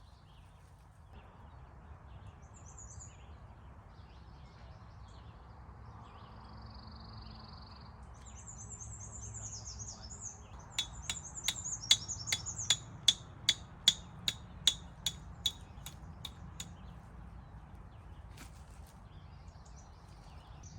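Wild birds calling and chirping, with a short held whistle early on, then a quick run of sharp ticks, about three a second for some five seconds, loudest a little past the middle.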